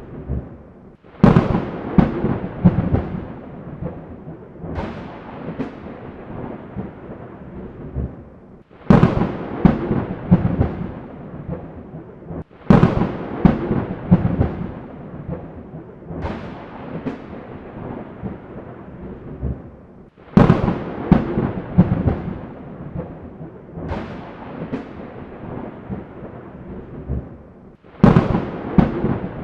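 Thunderstorm recording: claps of thunder cracking and rumbling, a fresh sharp clap about every four seconds, each fading into a low rumble before the next.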